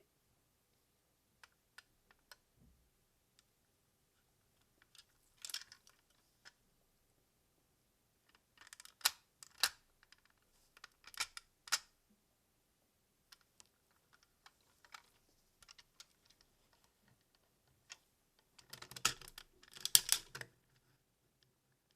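Hard plastic parts of a DX Gunbir-Oh combining robot toy clicking and snapping together in the hands, in scattered sharp clicks with a denser run of clicking and rattling near the end.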